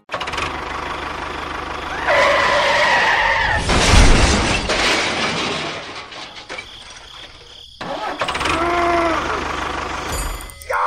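Small engine of a DIY mini tractor running, loudest about four seconds in, with a brief whining tone twice. The sound drops away and cuts off just before the last few seconds, then starts again.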